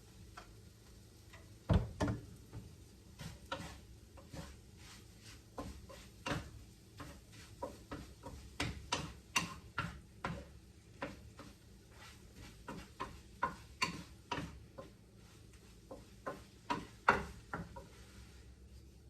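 A spatula tapping and scraping against a frying pan in irregular clicks and knocks while the egg that is sticking to the pan is worked loose.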